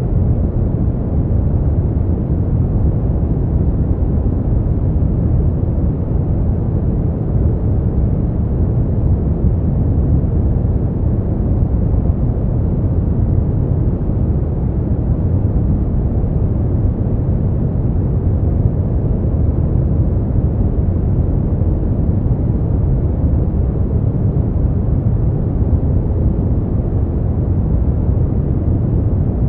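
Steady brown noise: a constant, deep rushing hiss weighted to the low end, with no changes or events.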